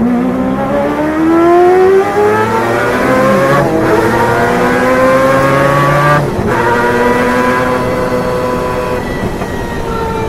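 Mazda 787B's naturally aspirated four-rotor rotary engine shrieking under hard acceleration, its pitch climbing in each gear. Twice, about three and a half and six and a half seconds in, the sound drops out for a split second as the flat-shift system cuts the ignition for an upshift, then comes straight back; after the second shift the pitch holds and slowly falls.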